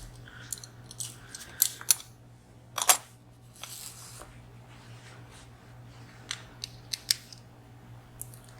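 Small metal clicks and a few short scrapes of lock-picking tools working in a three-row VSR dimple lock, one louder click about three seconds in.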